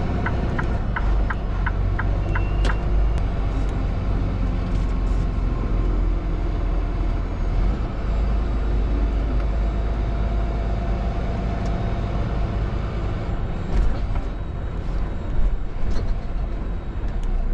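Steady engine and road rumble heard inside a semi-truck cab on the move. For the first few seconds there is a regular ticking about three times a second, and a couple of knocks come near the end.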